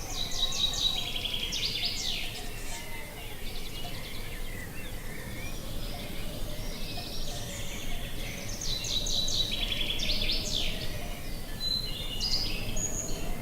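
A songbird singing: a phrase of rapid repeated notes ending in quick sweeping notes, given twice about six seconds apart, with a few scattered notes near the end, over a steady low wind rumble.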